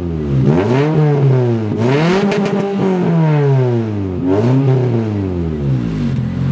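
Honda Civic EG9 VTi's B16A DOHC VTEC four-cylinder engine revved by three blips of the throttle, the middle one held longest. It drops back to a steady idle near the end.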